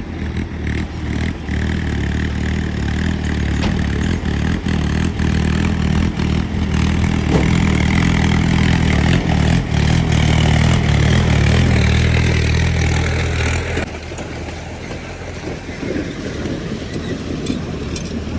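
Heavy diesel vehicle engine running hard under load, getting louder for a few seconds, then dropping back suddenly about 14 seconds in.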